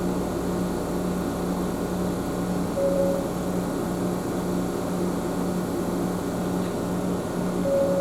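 Ohmi Railway train running, heard from inside the car: a steady rumble of wheels on track under a constant low hum, with a brief higher tone twice, about three seconds in and again near the end.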